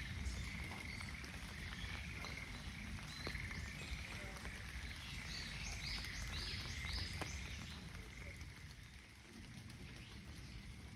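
A chorus of frogs calling steadily in the rain, fading about eight seconds in. Around the middle a small bird gives a quick run of about four high notes, over scattered ticks of raindrops.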